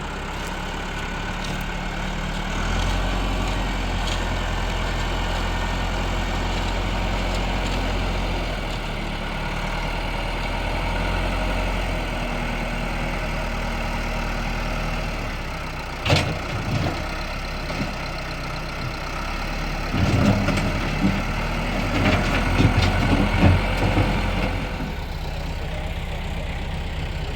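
Tractor engine idling steadily, with a sharp knock about halfway through and a run of irregular clanks and thuds a little later.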